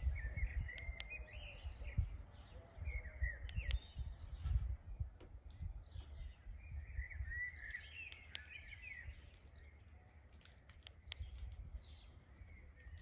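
Wild birds chirping and singing in short clusters, over an uneven low rumble.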